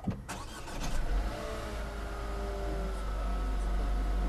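A Renault car's engine being started: it catches and flares about a second in, then settles into a steady idle.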